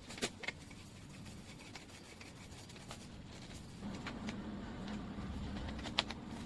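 Light handling noises of the camping shower's parts, a few small clicks and rubbing, with a faint low steady hum coming in about four seconds in.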